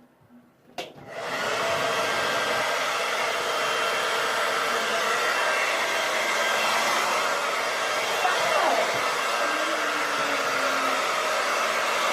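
Handheld hair dryer switched on with a click about a second in, then blowing steadily on hot.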